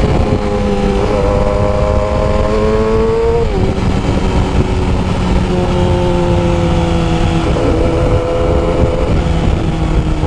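Yamaha R6's 600cc inline-four running through a custom exhaust while being ridden: the engine note climbs slowly, drops sharply about three and a half seconds in as a gear is changed, then holds and climbs again.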